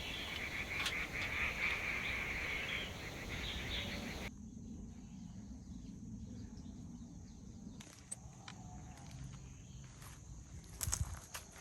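Quiet outdoor ambience. A steady high hiss stops abruptly about four seconds in, leaving a softer background with a few light clicks and a thump near the end.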